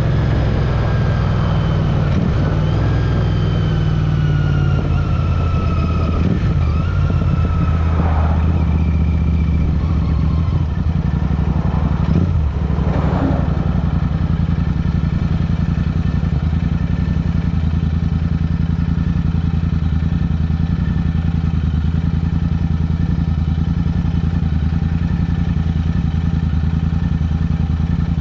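Royal Enfield Interceptor motorcycle's parallel-twin engine running steadily under way, with a faint whine that falls in pitch over the first several seconds. Two brief swells of passing noise come about eight and thirteen seconds in.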